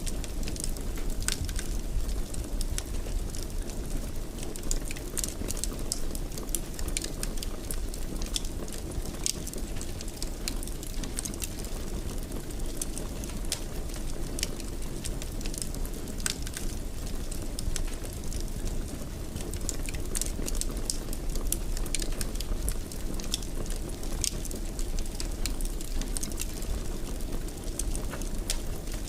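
Wood fire in a fireplace crackling, with frequent sharp pops and snaps over a steady low rumble of burning.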